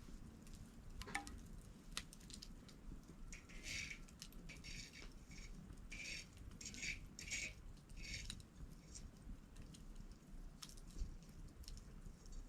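Wood campfire crackling, with sharp pops and a busy cluster of crackles in the middle, over a low steady rumble of the burning fire.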